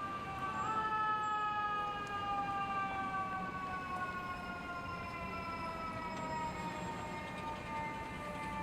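Fire engine siren winding down: one pitched wail that steps up slightly about half a second in and then slides slowly and steadily lower.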